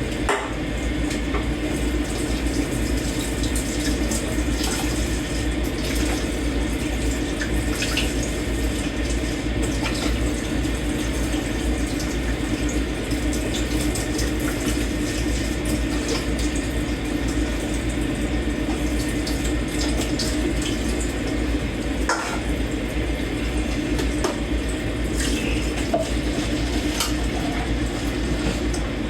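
Tap water running steadily into a kitchen sink while dishes are washed by hand, with scattered light clinks of dishes and cutlery.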